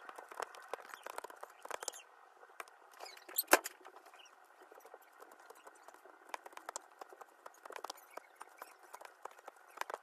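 Slime-filled stress ball being cut: a run of small sticky crackles and clicks, with one sharper, louder snap about three and a half seconds in.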